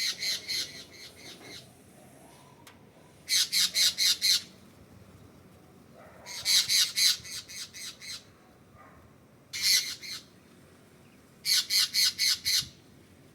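A bird making a racket of harsh squawking calls, in five quick bursts of four to six notes each, a couple of seconds apart.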